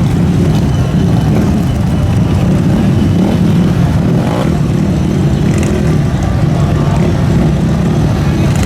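Motorcycle engines running loud and steady, with no clear revs.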